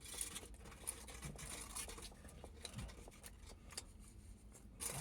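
Soft rustling and small crackles close to the microphone as a döner kebab in its wrapper is handled and eaten.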